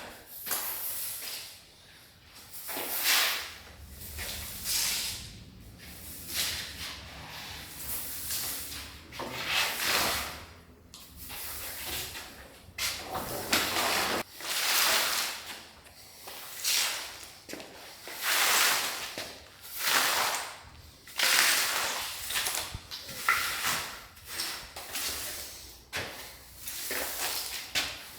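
Broom sweeping gritty demolition rubble across a floor: a long series of swishing strokes, one every second or two.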